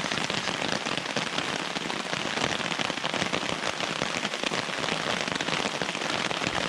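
Heavy rain pattering on a tarp overhead: a dense, steady patter of drops.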